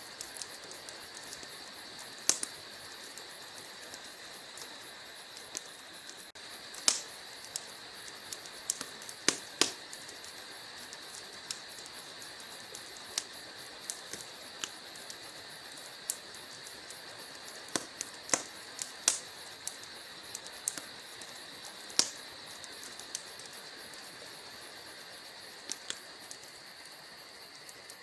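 Wood fire burning in a fireplace: irregular sharp crackles and pops over a steady soft hiss, a few louder snaps standing out.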